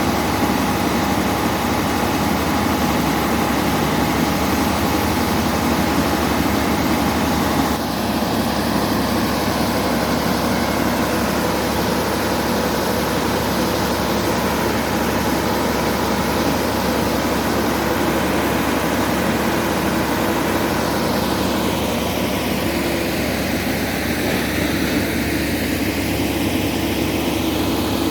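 Heavy diesel engines of an excavator and a crawler bulldozer running steadily, a constant low drone with a steady tone over it; in the last third the tone shifts slowly as if the machines move.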